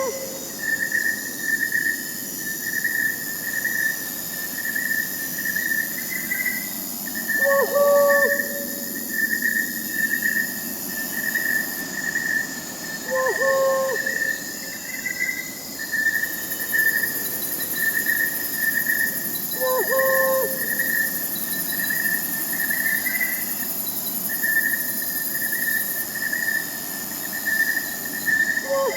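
Crickets chirping in a steady pulsing trill under a high insect hiss, with an owl giving a short hoot about every six to seven seconds.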